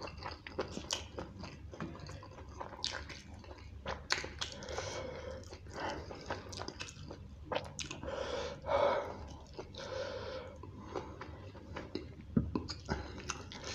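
Close-miked chewing of curry and rice, with wet mouth sounds and frequent sharp lip smacks, and fingers squishing rice against a steel plate.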